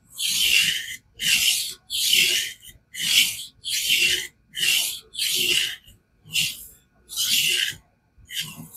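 Steel knife blade being stroked back and forth across a King whetstone in a fixed-angle sharpening guide: a run of about ten rasping, hissing strokes, a little more than one a second, with short gaps between them.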